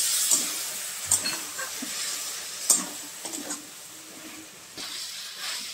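Moringa drumstick and potato curry sizzling in a metal kadhai while a metal spatula stirs it, scraping and knocking against the pan a few times, the loudest knock about two and a half seconds in. The sizzle dies down toward the end.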